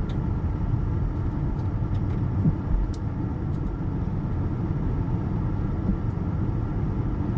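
A car's steady low rumble of engine and road noise, heard from inside the cabin while driving.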